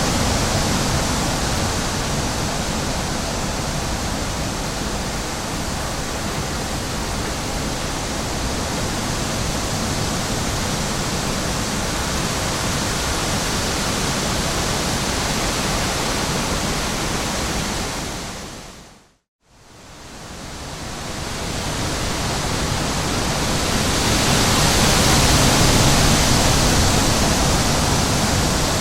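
Steady rushing wind noise with no distinct gusts or tones. About two-thirds of the way through it fades briefly to silence and fades back in, then swells a little near the end.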